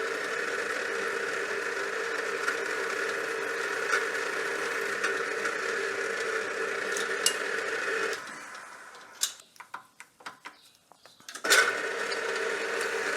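A workshop machine tool's motor running steadily, switched off about eight seconds in and running down, then a few clicks and knocks of handling, and switched back on with a sharp start near the end.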